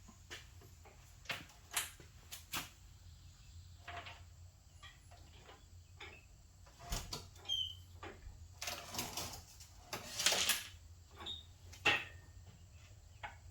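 Irregular clicks, knocks and scrapes of hand work on a transaxle and engine stand, with two longer scraping noises about nine and ten seconds in and a sharp knock near the end.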